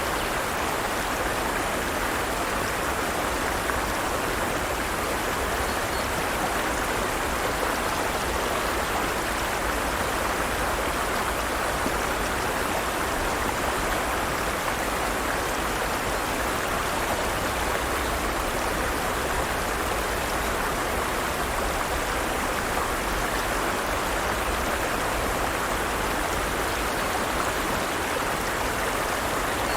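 Forest stream, water flowing and splashing steadily over rocks.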